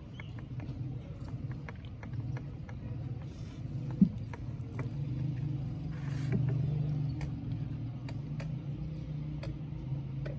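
Hand-tool work on engine parts: scattered light clicks and taps, with one sharper knock about four seconds in and two brief hissing scrapes, over a steady low rumble.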